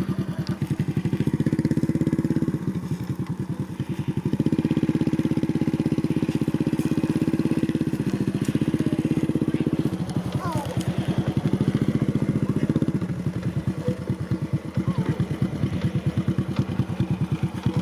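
Motorcycle engine running, its firing pulses steady throughout and growing louder in stretches as the throttle is opened and eased off.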